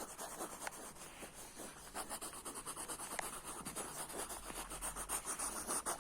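Colouring pen scribbling rapidly back and forth on a colouring-book page, a faint, quick scratching of strokes.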